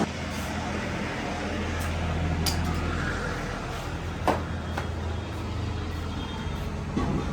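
Diesel engine of a tractor or backhoe running steadily, easing off after about five seconds, with a couple of sharp knocks.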